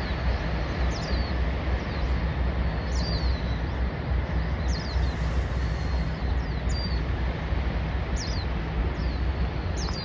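Small birds chirping with short, high calls that come singly or in pairs every second or two, over a steady low rumble of wind on the microphone.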